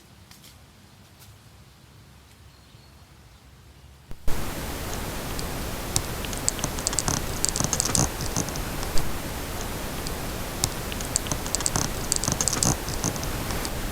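Quiet forest ambience with a few faint ticks, then about four seconds in a sudden loud rustling, crackling noise begins and keeps on, scattered with sharp crackles.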